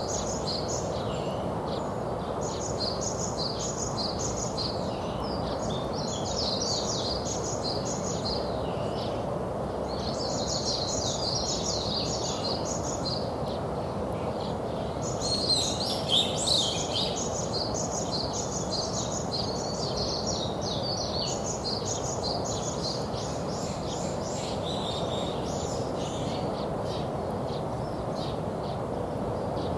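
Songbirds singing in repeated bursts of quick high chirps, the busiest and loudest stretch a little past the middle, over a steady low background rumble.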